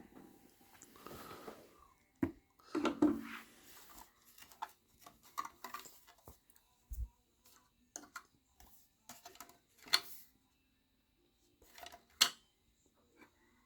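Faint, scattered clicks, pops and knocks from a record player in the gap between tracks on a worn 1966 record, with the strongest knocks about three seconds in and near the end.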